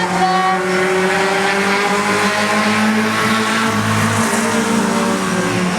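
Dirt oval race cars running at high revs on track, several engine notes held fairly steady with slow rises and falls.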